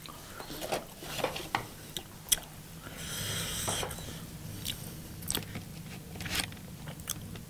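A person chewing food close to the microphone, with wet mouth clicks and smacks at irregular moments. A soft hiss comes about three seconds in.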